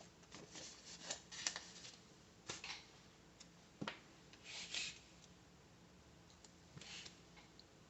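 Faint paper-craft handling noises: scattered short rustles of paper and sticker sheets with a few sharp clicks.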